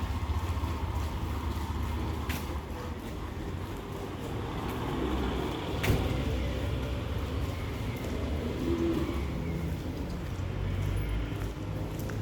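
Town street ambience: the steady low rumble of motor traffic running by, with a few sharp clicks, the loudest about six seconds in.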